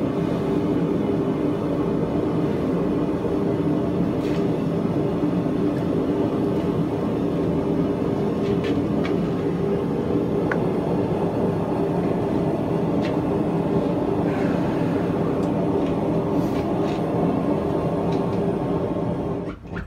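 A steady mechanical roar with a low hum, with a few faint clicks over it, cut off abruptly near the end.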